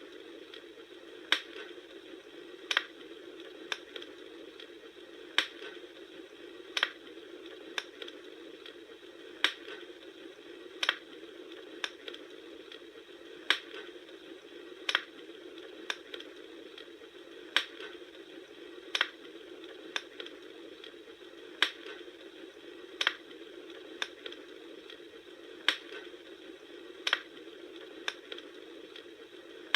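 Bonfire burning with a steady soft hiss, broken by sharp crackling pops that come at a strikingly even pace, about one every second and a half.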